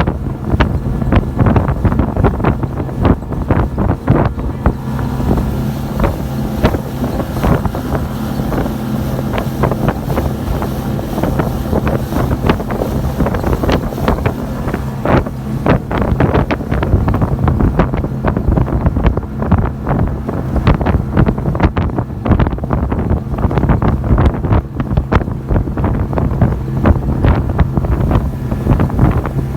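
Motorboat engine running steadily under way, a constant low hum, with heavy wind buffeting on the microphone.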